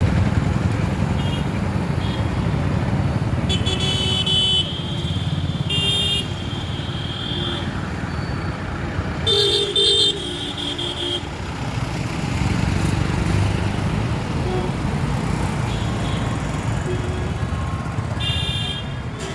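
Road traffic: a steady low rumble of vehicle engines, with vehicle horns honking several times; the longest and loudest honk comes about halfway through.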